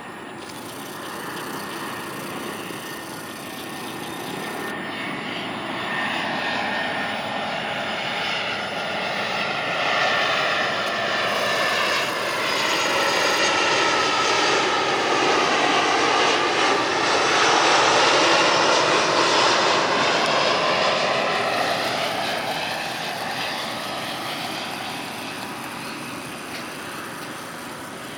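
Citilink Indonesia airliner on landing approach passing by, its engine noise growing steadily louder, loudest about two-thirds of the way through, then fading away, with a sweeping, shifting pitch as it goes over.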